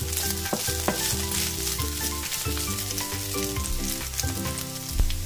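Strips of pork sizzling steadily as they brown in a nonstick frying pan, with a few clicks and scrapes from a wooden spoon stirring them.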